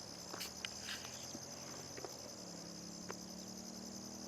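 A steady, high-pitched chorus of crickets chirping, with a few faint clicks over it.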